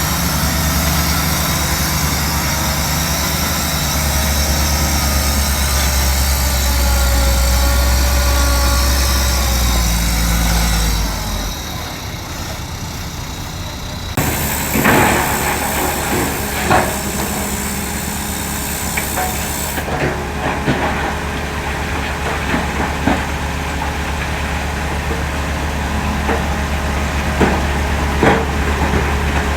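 Heavy diesel earthmoving machinery running, its engine loud and working harder for the first ten seconds before easing back. From about halfway on, the engine drone carries scattered sharp metallic clanks and knocks.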